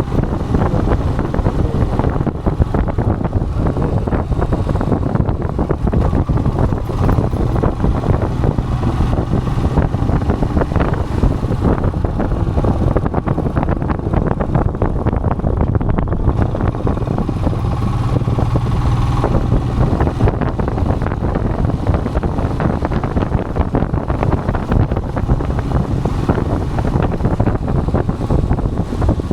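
Royal Enfield Himalayan's single-cylinder engine running steadily while riding, with wind rushing over the microphone.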